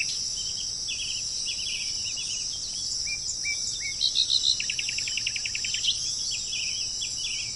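Small songbirds chirping and trilling in short, varied phrases, including a fast trill of rapidly repeated notes about five seconds in, over a steady high-pitched insect drone.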